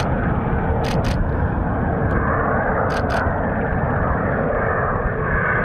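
Fighter jet engine noise, a steady dense rush with no change in level, crossed by a few brief sharp clicks.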